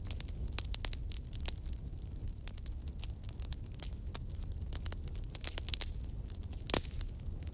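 Wood campfire burning: irregular crackles and pops over a low steady rumble of flame, with one louder pop near the end.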